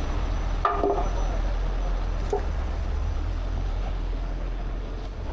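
Heavy truck diesel engine idling with a steady low rumble, and a brief faint voice-like sound about a second in.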